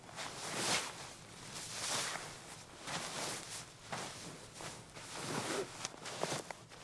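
Footsteps in deep snow, about one step a second, with a few light clicks near the end.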